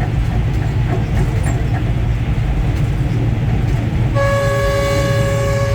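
Train running, heard from the locomotive cab as a steady low rumble. About four seconds in, the horn starts a held blast of several tones sounding together, the warning blown for a road crossing over the track.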